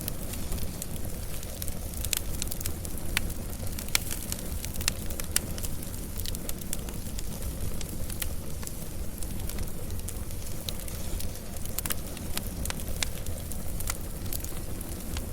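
Wood fire burning with a steady low rumble and hiss, and frequent irregular sharp crackles and pops of burning wood.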